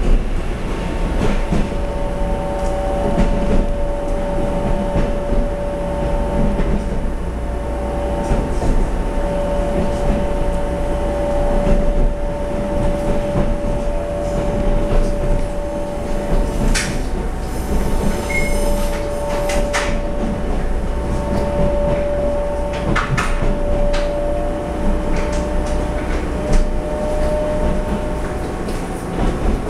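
Taiwan Railway EMU700 electric multiple unit running at speed, heard from inside the passenger car: a steady rumble of wheels on track with a steady whine held throughout, and a few brief clicks and squeaks a little past the middle.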